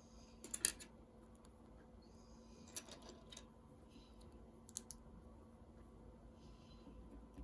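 Plastic Lego pieces clicking as they are handled and pressed together: a quick cluster of sharp clicks about half a second in, then a few single clicks spread through the rest.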